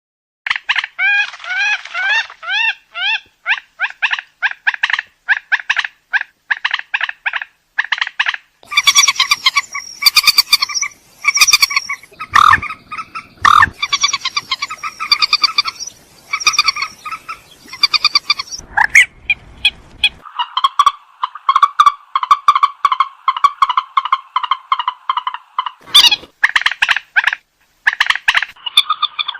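Recorded purple swamphen calls of the kind used to lure the birds: quick runs of short repeated notes, then louder harsh honking calls, and about two-thirds through a long run of rapid chattering.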